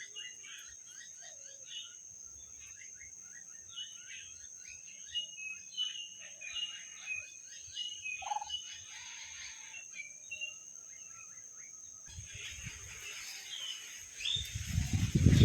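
Birds chirping in quick, repeated short notes over a steady high-pitched tone. Near the end a loud, low rumbling sound builds up.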